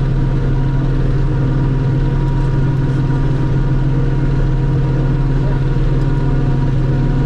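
Self-propelled forage harvester running steadily while chopping corn: a constant low engine drone with a thin steady whine above it.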